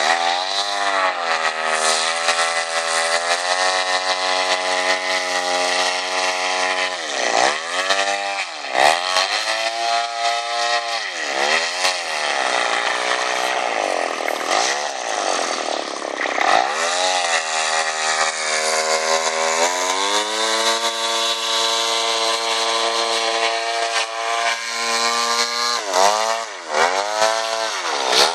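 62cc two-stroke chainsaw engine turning an 18x12 propeller on an RC airboat, running at a steady high speed. Its pitch dips sharply and climbs back several times through the middle and twice near the end as the throttle is chopped and reopened.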